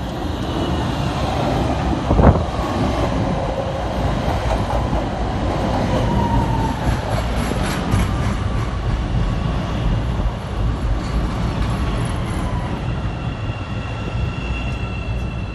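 CTA 5000-series rapid transit train running through the station: a steady heavy rumble of wheels on rail, with a sharp bang about two seconds in and faint high whining tones over the rumble.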